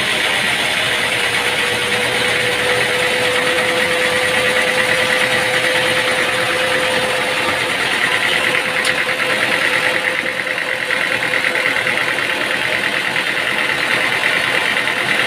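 Sawmill machinery running steadily with an engine-like drone. A steady mid-pitched whine sounds through roughly the first half.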